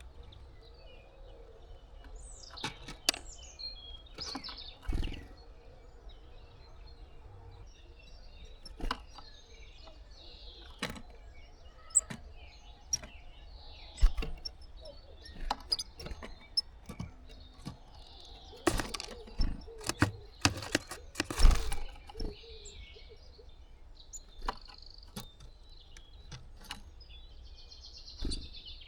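Irregular sharp taps and knocks at a wooden bird feeder, as birds or a squirrel land, peck and move about. They are busiest and loudest about two-thirds of the way through. Small birds chirp faintly in the background.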